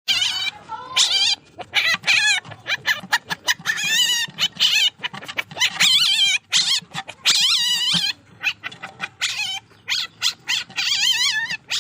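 Young palm civet (musang) kitten calling: a rapid series of high-pitched cries, each wavering up and down in pitch, some short and some held for over half a second.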